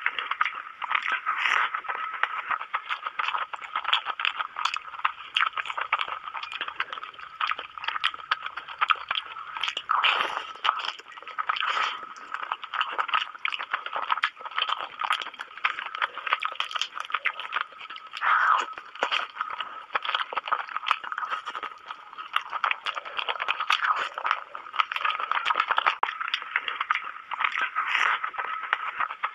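Close-up mukbang eating sounds: a person chewing and smacking on mouthfuls of saucy curried chicken and spiced noodles, making a dense, continuous run of small wet clicks and crunches.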